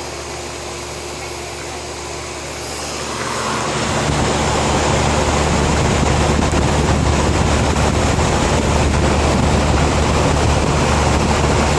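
Air conditioner units running with a steady mechanical hum. About three seconds in, a louder fan noise comes up over a second and then holds steady, as if another unit has started.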